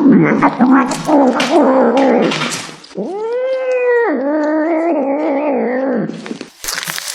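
A dog howling and whining in a string of drawn-out, wavering calls, with one long call near the middle that rises and then falls.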